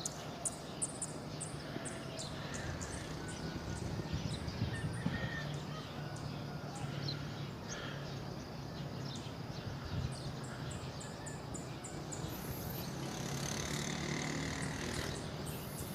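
Outdoor ambience: short bird chirps and calls over a steady low hum, with runs of quick high ticks.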